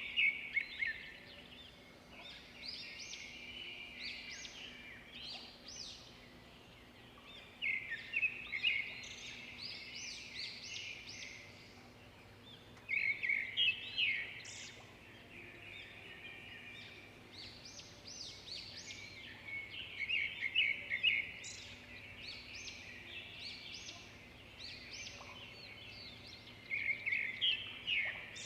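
A small bird chirping in quick bursts of rapid notes, a phrase about every six seconds, over a faint steady hum.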